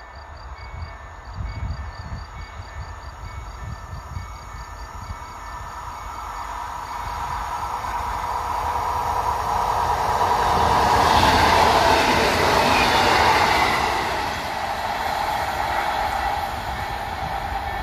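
Electric multiple unit approaching and passing on an electrified line. Its rumble and hum grow steadily louder to a peak about two thirds of the way through, then ease off.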